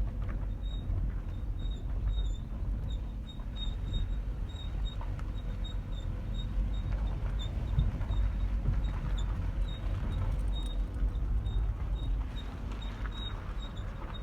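Chevrolet Cruze 1.6 station wagon driving slowly under a low rumble, with a short high-pitched squeak repeating evenly several times a second. It is an unidentified squeak that comes only in first gear below 10–15 km/h; the suspension, brakes and pads have been checked and found fine.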